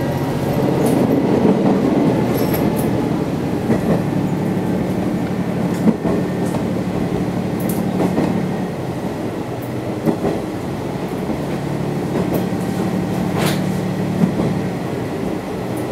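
Sanriku Railway diesel railcar running along the line, heard from on board: a steady engine hum and rolling rumble, with a few sharp clicks of the wheels over rail joints.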